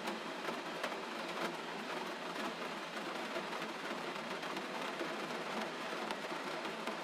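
Steady gentle rain falling, an even hiss with scattered faint drop ticks.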